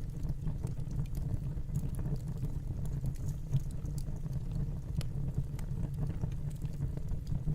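Fireplace crackling: a steady low rumble of burning with scattered small pops and snaps.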